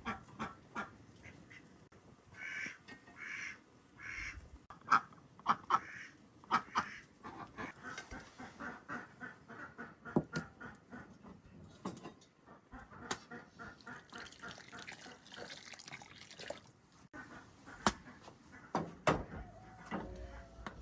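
Domestic fowl calling in short honking, quacking calls, with scattered sharp clicks and knocks around them.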